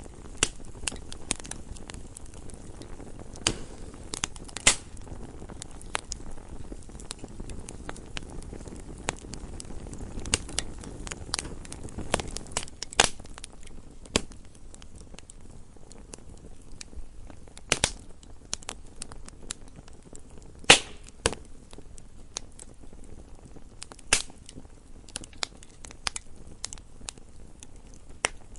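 Wood fire burning in a fireplace: a soft low rush of flames under frequent irregular crackles and sharp pops from the burning logs, one pop standing out louder about two-thirds of the way through.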